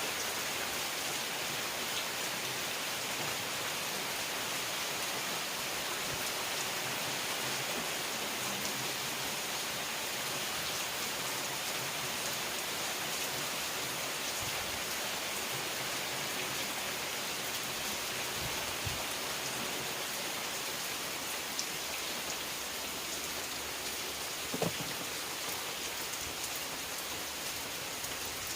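Steady rain falling and pattering on surfaces, with a few faint individual drop ticks and one small knock near the end.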